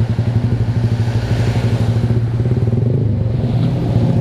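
Yamaha R15 V3's 155 cc single-cylinder engine running through an aftermarket SC Project exhaust, a steady pulsing exhaust note at constant cruising revs while riding.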